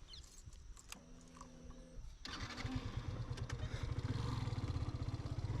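Motorcycle engine starting up about two seconds in and running with a rapid low pulse that grows louder.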